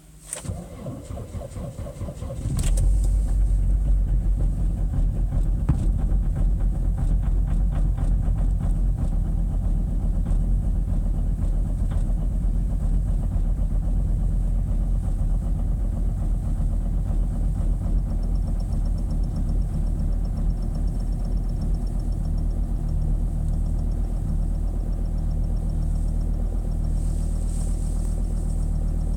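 2007 Volvo V70 D5's five-cylinder turbodiesel cold-started at about −18 °C: the starter cranks for about two and a half seconds, the engine catches, then runs on into a steady cold idle. A faint high steady whine joins about two-thirds of the way through.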